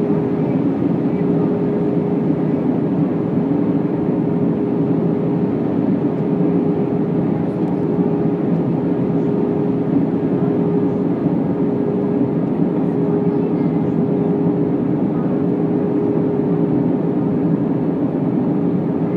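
Steady cabin noise of an Airbus A319 in flight: an even rumble of engines and airflow with a constant hum running through it, unchanging throughout.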